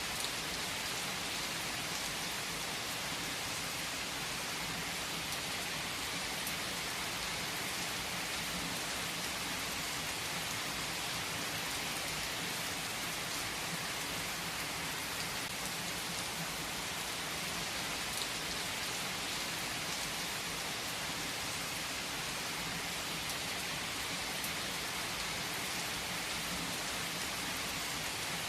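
Steady heavy rain falling on a surface: an even, unbroken hiss with faint scattered drop ticks.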